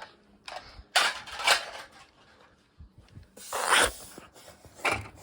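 Small plastic toy trucks being handled: a few clicks and short scraping rustles.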